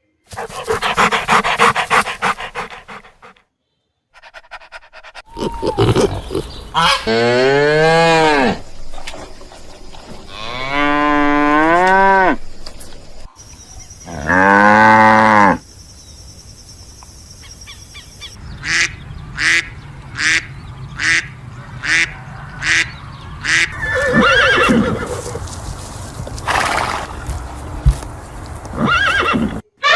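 A string of different animal calls, among them cattle mooing: several long pitched calls a few seconds apart, then a run of about ten short sharp calls at roughly two a second.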